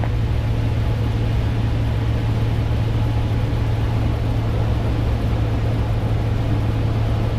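Cessna 150's four-cylinder Continental O-200 engine and propeller droning steadily in cruise flight, with a constant low hum and no change in power.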